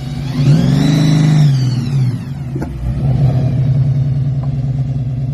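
1969 Plymouth Road Runner's V8 revving up about half a second in and dropping back within two seconds, then running steadily.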